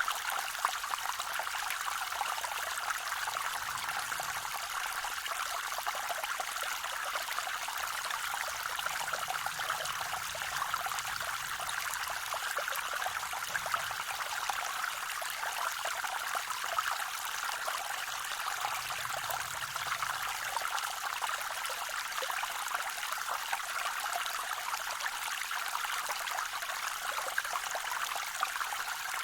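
Water of a small waterfall on a forest creek splashing and trickling in a steady, even rush, high in pitch with little low rumble.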